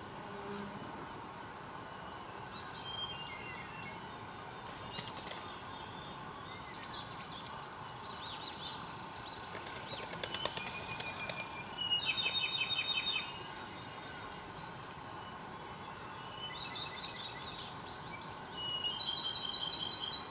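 Several wild birds calling and singing, with scattered chirps and quick rapid trilled phrases. The two loudest trills come about twelve seconds in and near the end, over a steady background hum.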